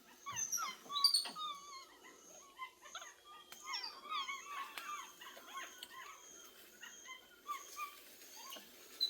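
Capuchin monkeys calling: many short, high-pitched squeaks and whistles that slide up and down in pitch, overlapping and busiest about four to five seconds in.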